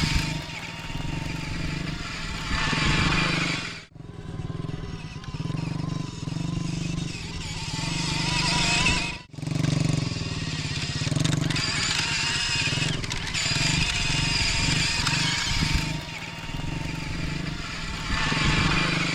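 Small off-road motorbike riding, its motor note wavering up and down, with the sound cutting off abruptly about 4 and 9 seconds in.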